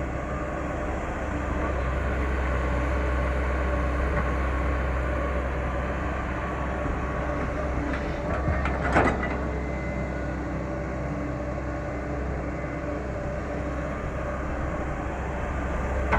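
Caterpillar 318 hydraulic excavator running steadily at working revs with a deep engine hum, and a brief louder clatter about nine seconds in.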